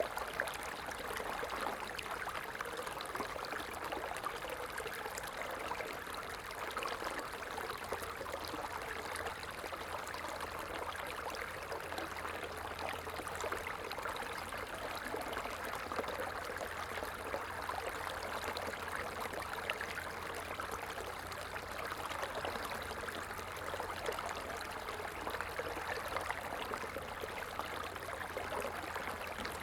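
Stream water running steadily, a constant, even rush of flowing water with fine splashing and trickling detail.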